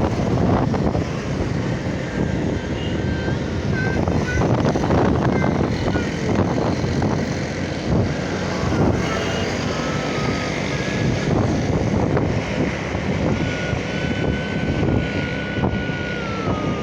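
Motorcycle ride through traffic: engine and road noise with wind buffeting the microphone. A faint high tone slides down near the end.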